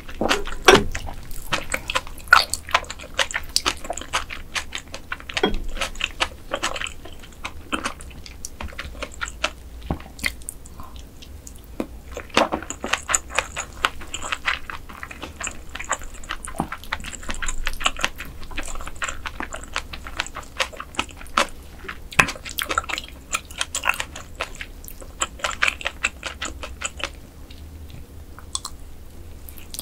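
Close-miked eating of mantis shrimp: wet chewing and biting with many sharp, crackly clicks coming in irregular runs.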